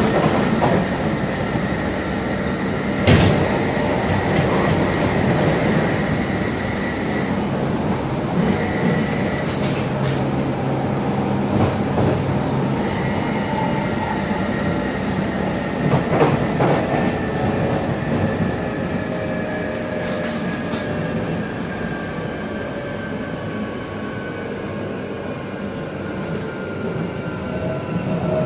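Alstom 1996 Tube Stock underground train running at speed, heard inside the car: a steady rumble with a motor whine and a few sharp knocks from the wheels over rail joints. In the second half the whine slowly falls in pitch and the noise eases as the train slows on the approach to the next station.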